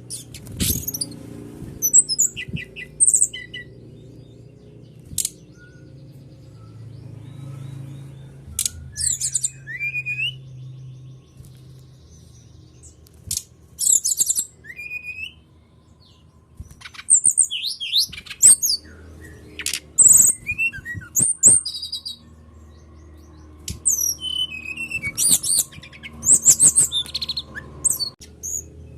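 Songbird chirping and twittering in short, varied bursts of high sharp notes, trills and quick rising whistles, with brief pauses between phrases. It is a lure song used to set caged birds singing. A steady low hum runs underneath.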